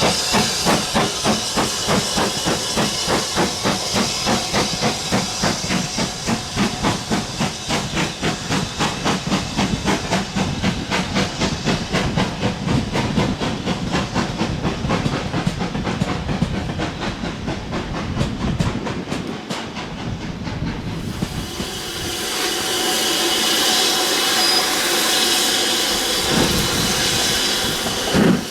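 Steam locomotive exhaust beating evenly and quickening as the engine gets a train under way. About three quarters of the way through, the beats give way to a steady hiss of steam.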